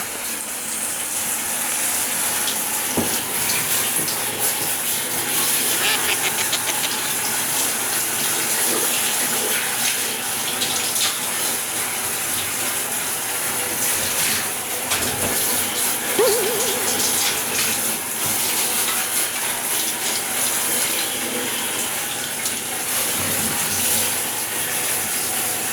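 Tap water running steadily into a bath.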